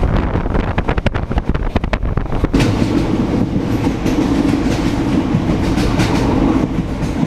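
Passenger train running on rails: wheels clatter rapidly over the track at first, then settle about two and a half seconds in into a louder, steadier rumble with a low hum.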